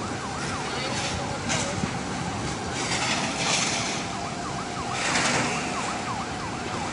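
Emergency vehicle siren in a fast yelp, its pitch sweeping up and down a few times a second over steady background noise, with short bursts of hiss.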